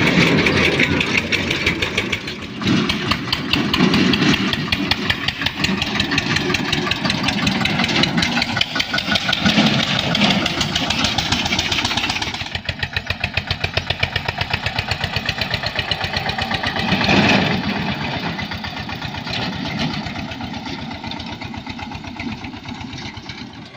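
Eicher 242 tractor engine running with a rapid, even firing beat. It runs louder and busier for the first half, drops to a quieter, steadier run about halfway through, and swells briefly once more a few seconds later.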